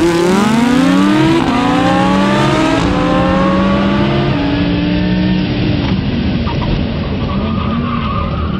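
Audi R8's 5.2-litre V10 at full throttle, accelerating hard through the gears. The pitch climbs steeply, drops back at quick upshifts about a second and a half apart, and each later climb is slower as speed builds.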